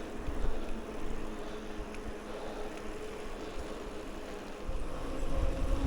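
Wind rushing over the microphone and tyres rolling while riding a bicycle at speed, a steady noise with a faint hum underneath. The low wind buffeting gets heavier near the end.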